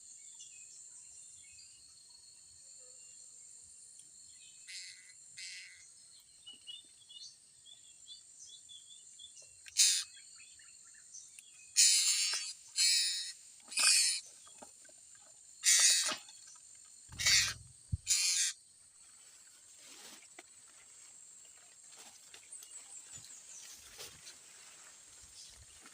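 Steady, high-pitched insect drone with faint small bird chirps. In the middle comes a run of about seven loud, harsh half-second noises.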